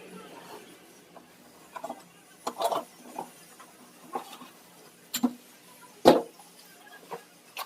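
Fan parts and packaging being handled: scattered knocks and clicks at irregular intervals, the loudest about six seconds in.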